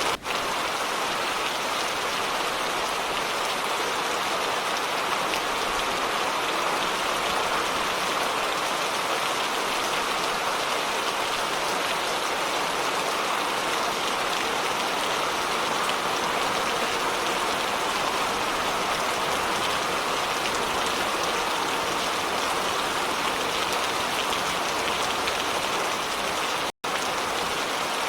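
Steady rain falling, an even hiss of drops with no thunder heard. Near the end the sound cuts out for an instant and resumes.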